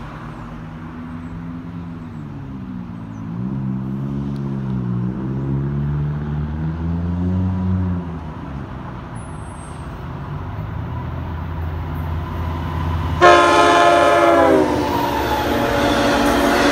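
An LIRR EMD DM30AC diesel locomotive approaching and passing. A low engine drone wavers up and down for the first several seconds. Then comes one horn blast of about a second and a half, a little after the middle, dropping in pitch at its end as the locomotive goes by, followed by the rising rush and rumble of bilevel coaches passing close.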